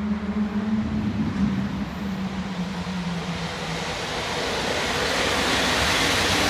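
Train hauled by an EP07 electric locomotive approaching on the track, its rushing rail noise growing steadily louder. A steady low hum fades out about halfway through.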